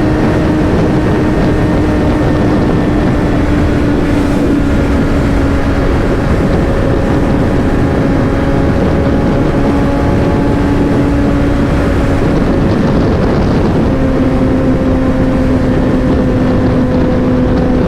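Motorcycle engine cruising at a steady speed with heavy wind rushing over the helmet microphone. The engine note sags slightly, then shifts once about fourteen seconds in and holds steady again.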